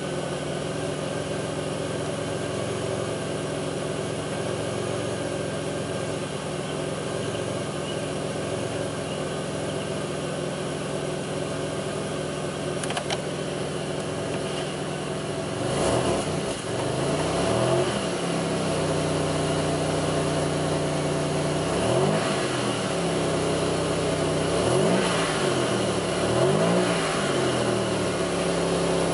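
2002 Pontiac Grand Prix's 3800 V6 engine running at a steady idle, then blipped several times from about halfway through, its pitch rising and falling back each time. The owner describes the engine as idling rough and bogging.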